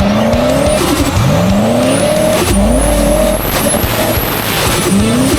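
Drift car's 1UZ V8 engine revving hard in repeated climbs, each rev rising for about a second before dropping back as the car is driven sideways.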